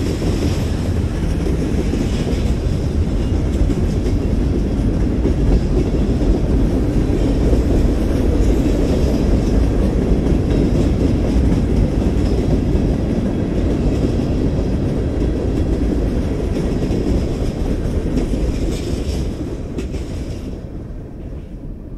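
Cars of a BNSF mixed freight train rolling past close by: a steady low rumble and clatter of steel wheels on the rails, which fades near the end as the last cars go by.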